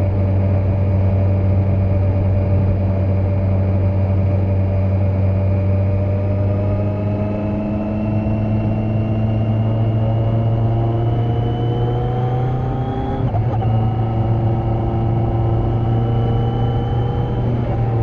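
2020 Kawasaki Z900's inline-four engine, with the catalytic converter removed, running under way. The revs climb slowly, dip briefly about two-thirds of the way through as at a gear change, climb again, and ease off at the end.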